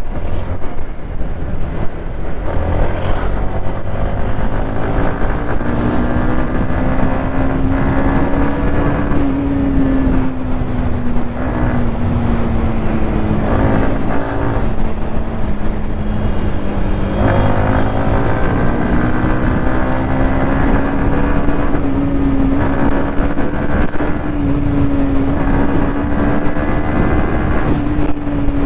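Modified Yamaha MT-15 155 cc single-cylinder engine at highway speed, its note rising and falling slowly with the throttle. About halfway through the pitch dips sharply and climbs again, with a gear change. Wind rumble runs underneath.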